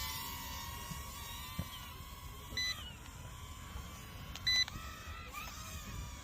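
Small drone's propellers whining steadily in the air, with wind rumbling on the microphone. Two short electronic beeps come about two seconds apart.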